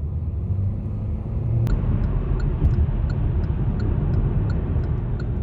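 Car on the move: steady low engine and road rumble. A sharp click about a second and a half in, after which the rumble grows fuller, and faint light ticks follow.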